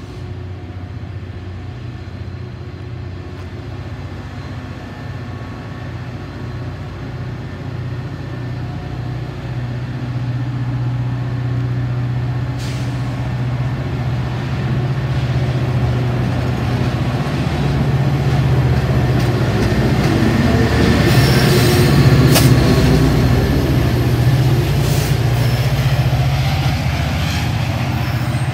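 Diesel-hauled bilevel commuter train pulling out past the platform. The locomotive engine runs steadily, growing louder to a peak about two-thirds of the way through as the locomotive end passes, with wheel and rail noise and a few sharp clicks or squeaks around the peak.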